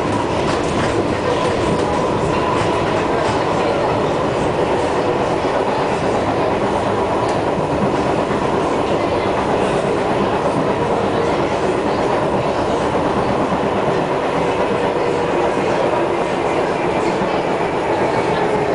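Inside an SMRT C151 metro train (set 047-048) running between stations: a steady rumble of wheels on rail with steady motor tones above it. This is the traction motor sound that sets this unit apart from other C151 trains.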